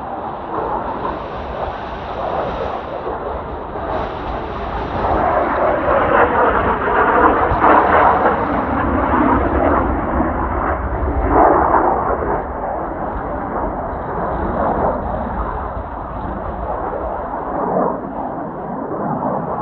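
Jet noise from the Blue Impulse's Kawasaki T-4 trainers flying the display, a rushing roar that swells and fades, loudest about eight and twelve seconds in. Strong wind buffets the microphone throughout.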